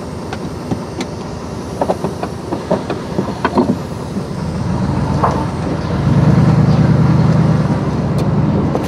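Vehicle engine heard from inside the cab, with scattered light clicks and rattles. About five seconds in the engine drone grows louder as the vehicle pulls forward, and it holds steady to the end.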